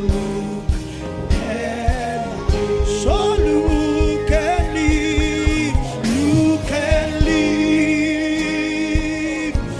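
Gospel music with singing: a vocal line with vibrato over sustained chords and a steady beat.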